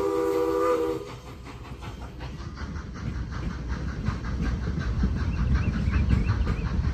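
Train horn or whistle sounding a steady multi-note chord that stops about a second in. Then the train approaches, with a rumble and wheel clatter that grow louder toward the end.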